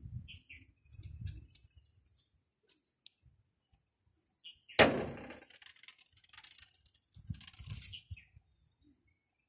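Scattered short bird chirps outdoors over intermittent low rumbling. A single sharp crack about five seconds in is the loudest sound, fading over about a second.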